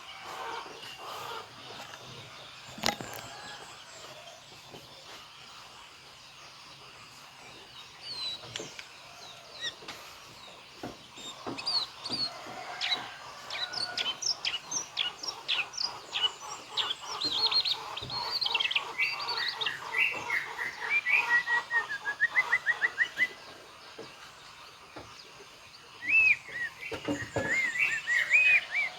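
White-rumped shama (murai batu) singing a long varied song of quick whistles, chirps and trills, mixing in imitations of other birds. The song is sparse at first and becomes a dense run of notes from about a third of the way in.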